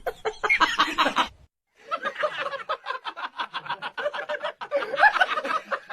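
A person laughing in quick repeated bursts, after a short break in the sound about a second and a half in.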